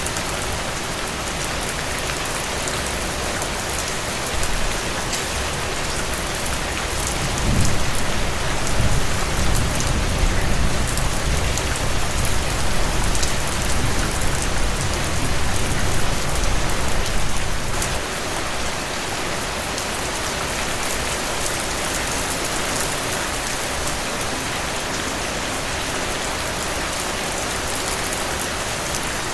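Steady rain falling, an even hiss of drops. A low rumble swells in about a quarter of the way through and dies away a little past the middle.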